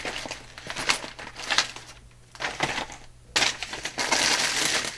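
Paper rustling and crinkling as craft paper scraps are handled, with a few sharp clicks and taps at first, a short lull, then a steady rustle from about three and a half seconds in.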